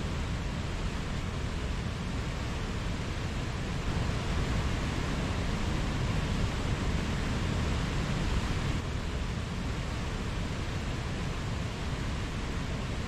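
Mountain stream water rushing steadily, a continuous full hiss of flowing water, a little louder for a few seconds in the middle.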